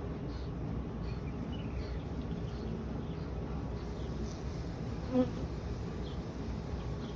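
Honeybees buzzing around an open hive, with a brief louder buzz about five seconds in.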